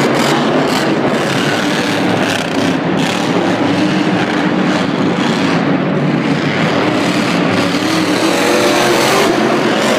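Monster truck engine running loud and steady, with a short wavering rise in pitch near the end.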